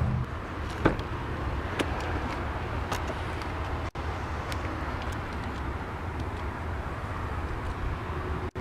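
2002 Pontiac Grand Prix GT's 3.8-litre V6 idling steadily just after start-up, with a few light clicks in the first three seconds.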